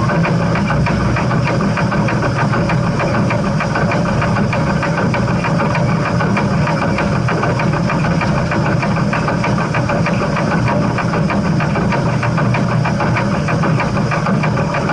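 Steam train running with a steady, loud rumble and a fast, even clatter that does not change throughout.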